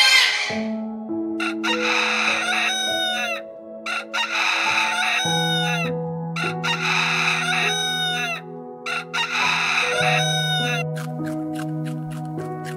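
A rooster crowing four times, each call about a second and a half long and roughly two seconds apart, over soft background music with long held notes. Near the end comes a quick run of short sharp clicks.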